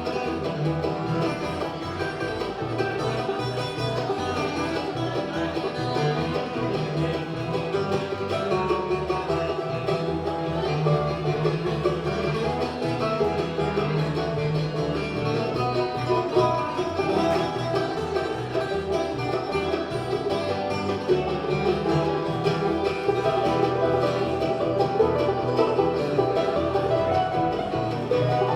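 Live bluegrass band playing an instrumental break, with banjo and guitar picking over a steady rhythm.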